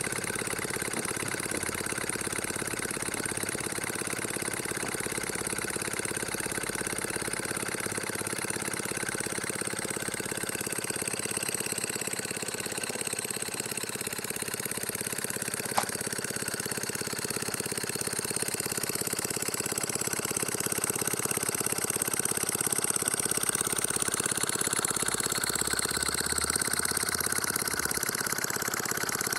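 H.E. Boucher twin-cylinder model marine steam engine running steadily on compressed air, a fast, even mechanical clatter of exhaust beats and moving parts. It grows a little louder from about two-thirds of the way in, and there is one sharp click around the middle.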